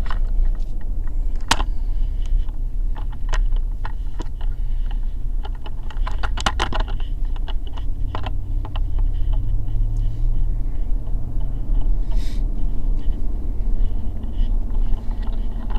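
Steady low road and engine rumble inside the cab of a lifted 2020 Ram pickup on the move, with scattered clicks, taps and scrapes as the camera is handled and set back up.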